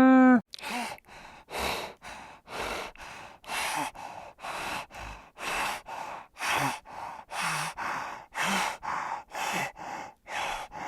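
An animal's heavy, rhythmic breathing, about two rough breaths a second in and out, some with a faint grunt in them. A pitched call cuts off just as it begins.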